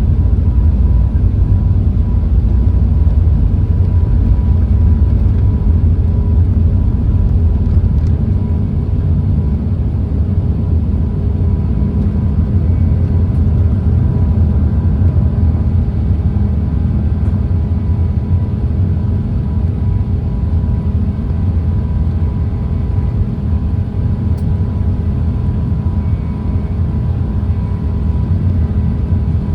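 Steady low rumble of a jet airliner's engines, with a few faint steady whining tones above it.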